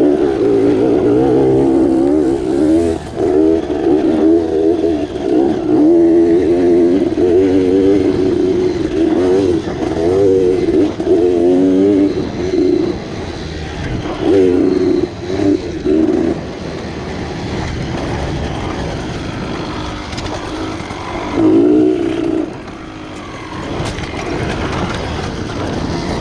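Dirt bike engine being ridden on a trail, its pitch rising and falling repeatedly as the throttle is worked. About two-thirds through it settles into a quieter, steadier stretch, then briefly drops off.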